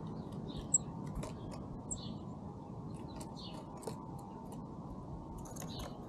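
Small songbirds giving a few short, high chirps and chip notes, with scattered light clicks, over a steady low background rumble.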